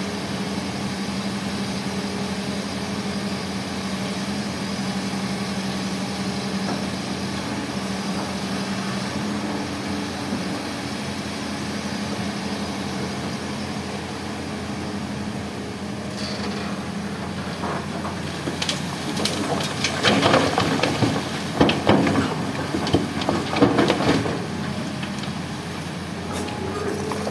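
Heavy diesel engine running steadily, then about two-thirds of the way through a few seconds of loud clattering and crashing as coral rock is tipped from an excavator bucket into a dump truck's bed.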